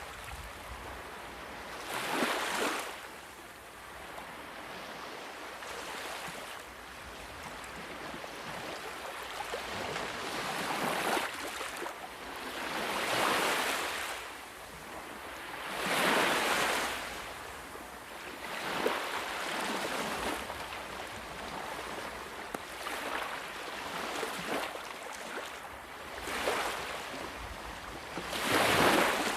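Ocean waves breaking and washing ashore, a steady rush of surf that swells into a louder crash every few seconds and then falls away.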